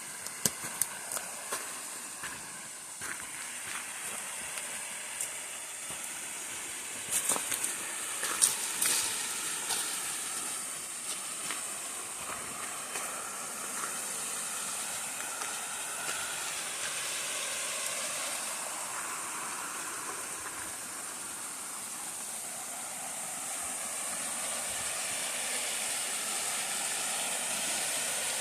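Steady rushing hiss of a waterfall, growing slowly louder as it is approached, with a short cluster of clicks about seven to nine seconds in.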